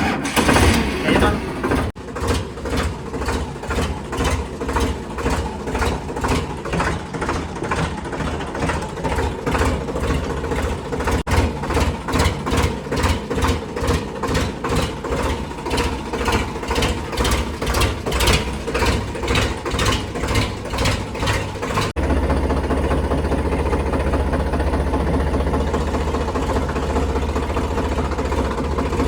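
Tractor engine running with an even rhythmic pulsing of two or three beats a second, settling to a steadier note about 22 seconds in.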